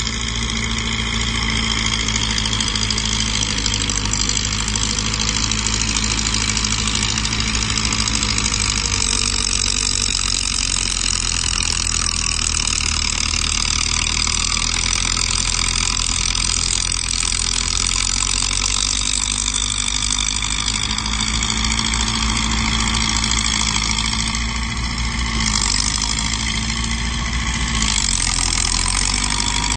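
Heavy construction-machine diesel engine running steadily, its pitch shifting briefly a couple of times.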